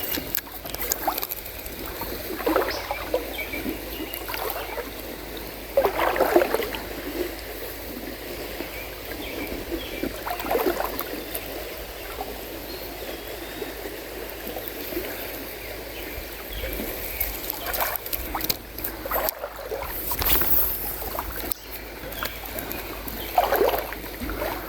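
Shallow river water running and sloshing around a wading angler's legs, with several louder splashes spread through.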